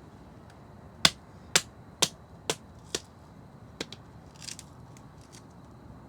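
Five sharp knocks about half a second apart, each a little quieter than the last, followed by a few fainter clicks and a brief rustle.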